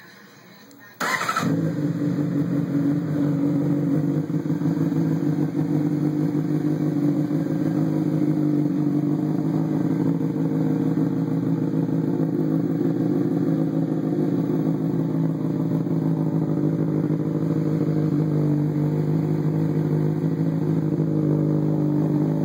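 2012 Honda CBR600RR's inline-four engine starting about a second in, then idling steadily through a Hyperflo aftermarket exhaust with its sound cores (baffles) taken out.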